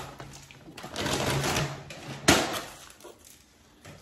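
Crinkling and clatter of takeout food packaging being handled at a table, with one sharp knock a little over two seconds in.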